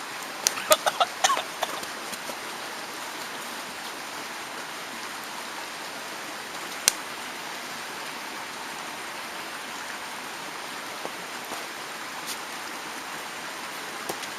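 Steady rushing of a mountain stream, with a few short sharp sounds near the start and one sharp snap about seven seconds in.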